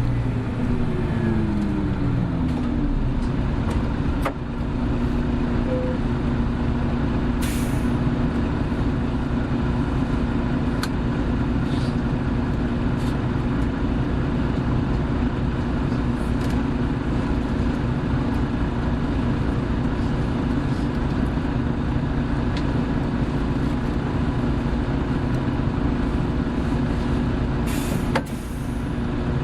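Hino Blue Ribbon City hybrid bus heard from inside while under way: the drivetrain whine falls in pitch over the first few seconds, then settles into a steady hum. Two short hisses of released air come about seven seconds in and near the end, with occasional clicks and rattles.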